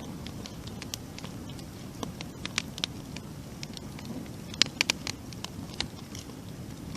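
Wood campfire burning: a steady low rush of flame under irregular sharp crackles and pops, with a quick cluster of louder pops about two-thirds of the way through.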